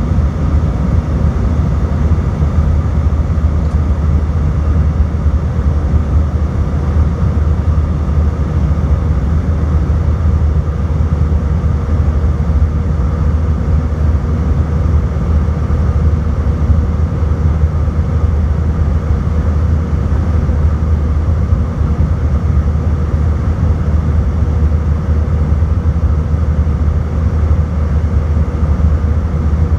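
Airbus A319 jet engines and airflow heard from inside the cabin over the wing: a steady deep drone and rush with a faint constant whine on top, typical of the climb after takeoff.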